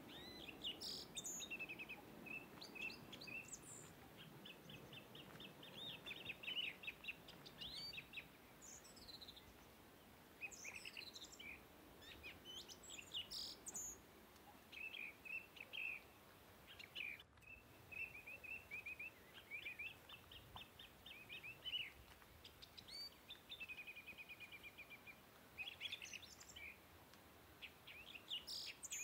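Several small birds calling and singing, with rapid repeated chirps and trills and occasional quick downward-sweeping whistles.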